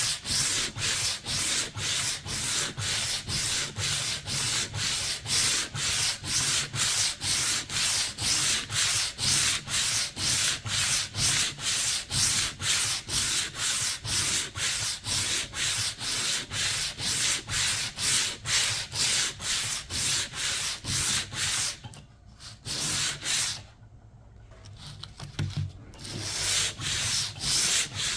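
Hand sanding of an old painted finish: sandpaper rubbed back and forth in even strokes, about two and a half a second, with a short pause near the end before the strokes resume.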